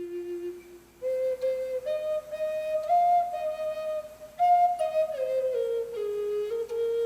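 Native American flute playing a slow melody of held notes. A low note dies away, a short breath-pause follows about a second in, and then a new phrase rises to its highest notes around the middle and steps back down near the end.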